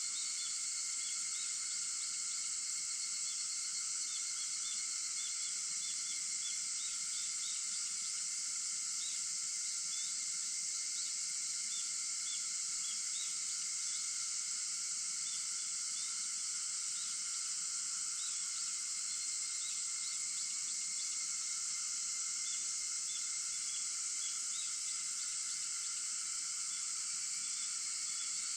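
Steady chorus of cicadas and other insects: a continuous high-pitched buzz with fainter steady droning tones beneath it and small scattered chirps throughout.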